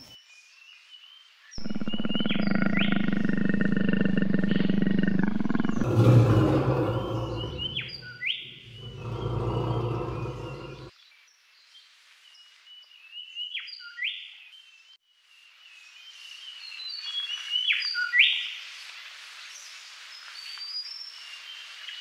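Caged birds in an aviary chirping, with repeated short rising calls. For roughly the first half a much louder, low, rumbling roar-like sound starts abruptly, breaks briefly, and cuts off suddenly.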